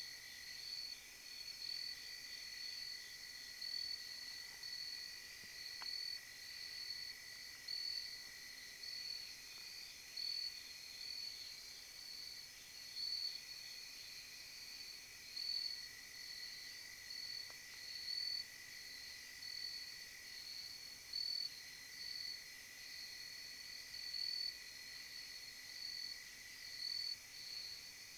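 Insects chirping in a steady, even rhythm, with a continuous high drone beneath.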